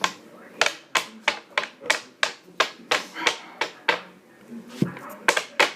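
A run of sharp taps or clicks, about three a second, pausing for about a second before a last quick cluster.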